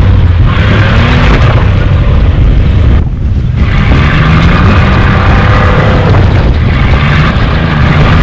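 Off-road vehicle engine running hard and revving, its pitch rising and falling. It eases off briefly about three seconds in, then picks up again.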